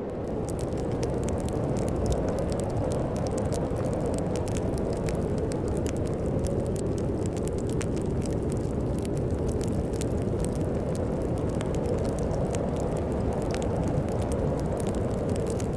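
A wood fire crackling with many small, sharp pops, over a steady low rumble of storm wind.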